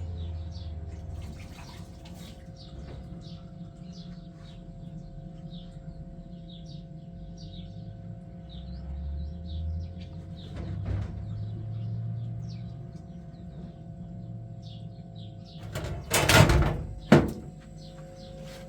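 Small birds chirping over a steady low hum, with two loud bangs like a door knocking shut near the end.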